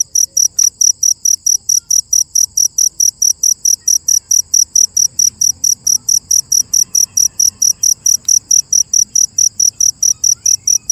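Cricket chirping, a steady high-pitched chirp repeated about five times a second without a break.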